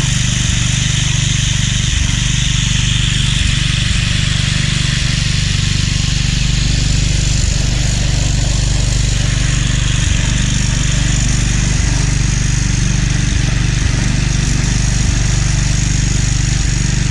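Remington 22-inch wheeled string trimmer's 159cc OHV engine running steadily at speed, its string head spinning. The machine is working properly after its belt-tensioner repair.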